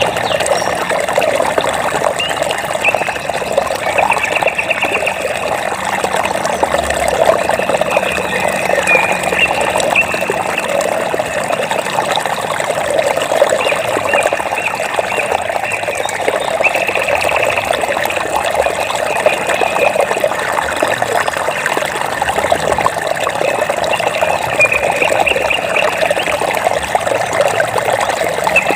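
Water trickling and babbling steadily. Short, rapid pulsed trills from a calling animal come and go every few seconds above it.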